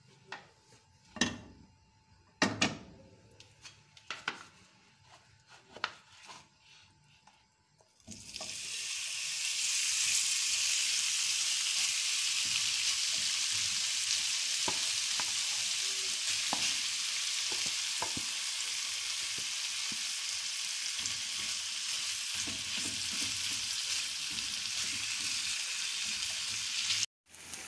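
Marinated chicken pieces frying in hot oil in a pan: a steady sizzle that starts about eight seconds in, with a few light taps during it. Before the sizzle, scattered clicks and knocks.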